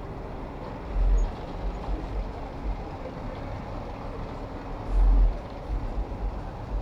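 City road traffic: steady noise of cars, buses and trucks around a moving bicycle, with two brief low rumbles, about a second in and again about five seconds in.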